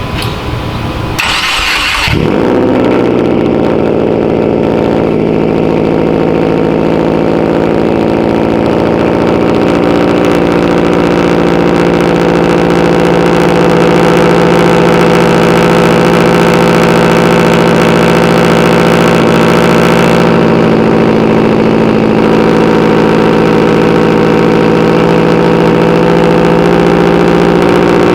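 2013 Subaru WRX's turbocharged flat-four cranking and catching about two seconds in, then idling steadily. It breathes through Tomei unequal-length headers, a catless downpipe and a Tomei cat-back exhaust.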